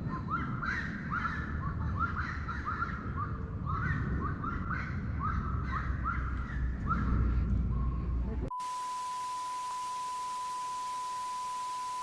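Birds calling in a chorus of short, repeated curved notes, about two a second, over a low rumble of wind or handling noise. About eight and a half seconds in, this cuts off abruptly and gives way to a steady, pure single-pitched tone.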